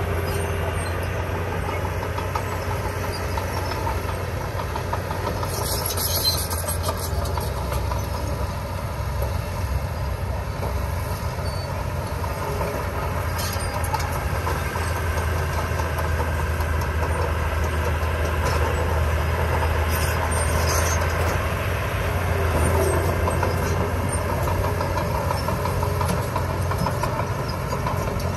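Diesel engine of heavy construction machinery running steadily with a deep drone, with brief high metallic rattles about six seconds in and again around twenty seconds.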